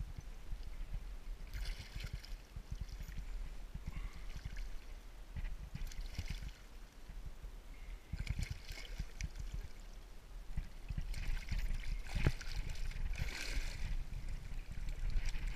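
Water splashing and trickling in several short bursts, the last and longest a few seconds before the end.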